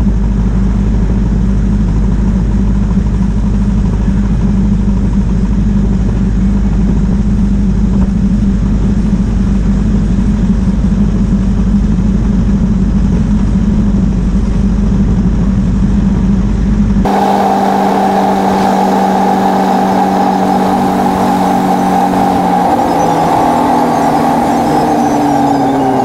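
Ford Model T's four-cylinder engine running steadily at highway speed under wind and road noise. About two-thirds of the way in the sound changes abruptly to a steady whine over the engine note, and near the end the pitch falls as the car slows.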